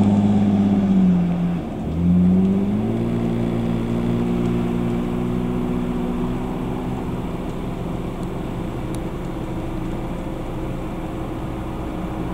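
A car engine running. Its pitch drops and the level dips about two seconds in, then it rises again and holds steady.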